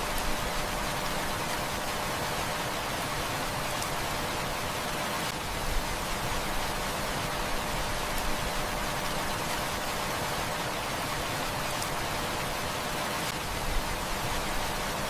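Heavy rain falling steadily, a dense even hiss, with a few faint crackles from a burning wood fire.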